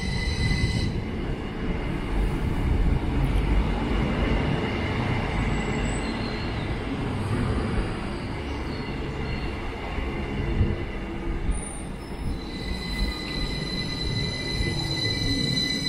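Northern Class 333 electric multiple unit rolling slowly along the platform as it comes in to stop, a steady rumble of wheels on rail. A steady high whine sounds in the first second and returns from about twelve seconds in.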